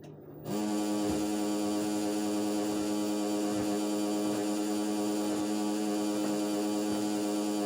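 LG washing machine running with a steady hum. It comes on about half a second in and holds one even pitch with many overtones. This is the strange noise from underneath the machine that the owner is asking about.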